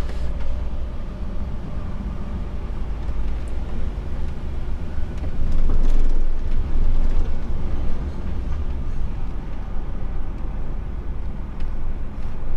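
HGV truck's diesel engine running as the truck drives slowly on, with a steady low rumble and a few light rattles, growing louder for a couple of seconds around the middle.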